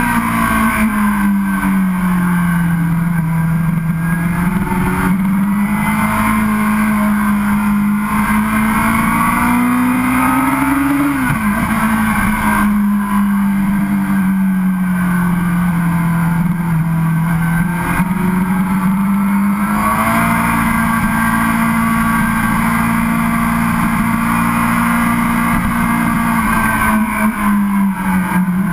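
Yamaha YZF-R6 sportbike engine heard from onboard at steady mid revs, its pitch rising and falling gently with the throttle, with a quick drop and recovery about eleven seconds in like a gear change. Wind rush runs under it.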